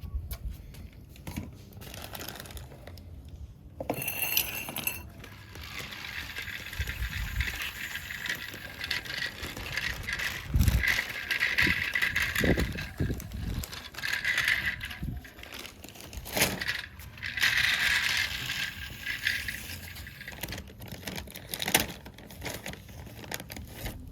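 Small toy vehicles being handled and pushed about, their plastic and metal parts rattling and clinking, with scattered clicks.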